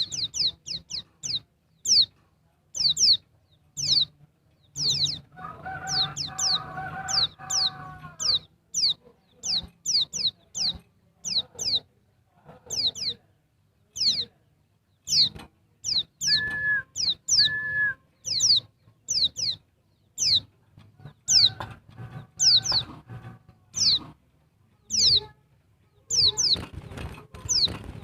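Female pleci dakbal (white-eye) calling: a fast, steady run of short, high chirps, each sliding down in pitch. Lower, clucking calls from another bird come in twice, and two short whistled notes sound near the middle.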